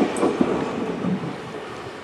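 Diesel railcar that has just passed, its running and wheel noise fading steadily as it moves away, with a couple of sharp clicks from the rails in the first half second.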